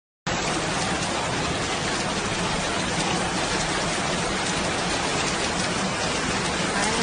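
Heavy tropical-storm rain coming down hard, a dense steady roar that starts abruptly just after the start.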